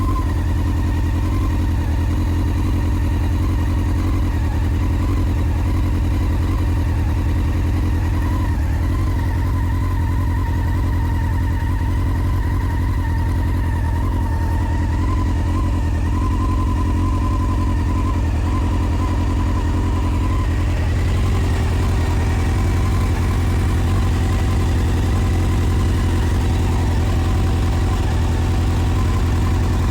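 Honda CBR600F4's inline-four engine running steadily without revving, making an odd noise that the owner cannot place. A thin wavering high tone rides over the engine note and shifts about two-thirds of the way through.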